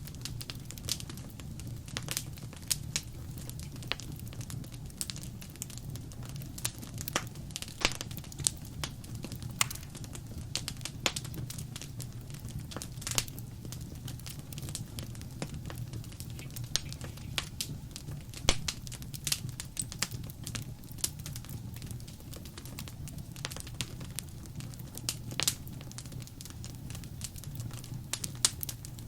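Wood fire crackling: sharp, irregular pops and snaps, several a second, over a steady low rumble of burning.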